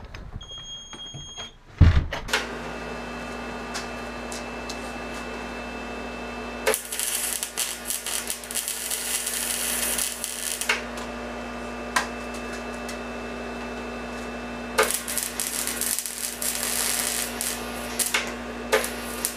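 Welder switched on with a click about two seconds in, then humming steadily, with two long runs of crackling arc as exhaust pipe is welded, each beginning with a sharp click.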